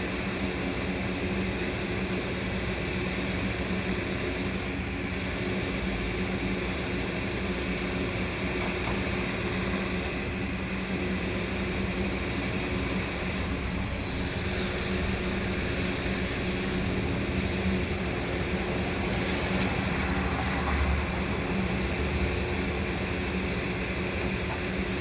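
Steady drone of a heavy machine's engine running at a demolition site, with a steady high hiss above it and no distinct crashes or impacts.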